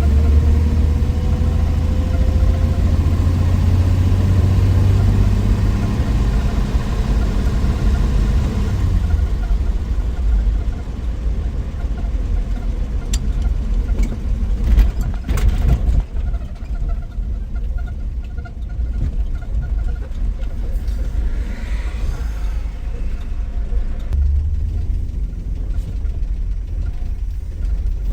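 A 1963 Willys Wagon's Tornado 230 overhead-cam inline-six pulling under acceleration, its pitch rising over the first several seconds. It then eases off to a lower, quieter run with a few sharp clicks in the middle, and pulls strongly again near the end.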